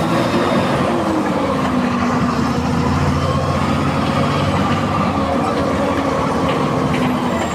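MWM 6.12 TCE turbo-intercooler six-cylinder diesel of a VW 17-230 EOD bus, running steadily under way. Its note dips slightly about a second and a half in, then holds.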